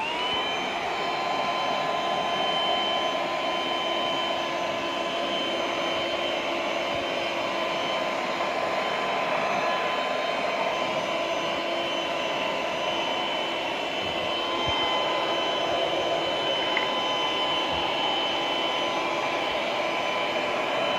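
Black+Decker Dustbuster QuickClean cordless handheld vacuum spinning up as it starts, then running steadily with a high motor whine over a rush of air.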